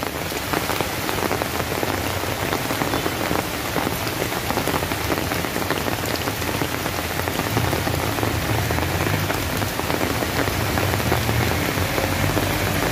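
Heavy typhoon rain falling steadily, a dense hiss full of individual drop ticks. A low hum joins in under it in the second half.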